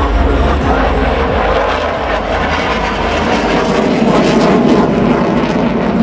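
Fighter jet engines running loud during a flying display pass, a dense rushing noise that dips a little about two seconds in and swells again about four seconds in.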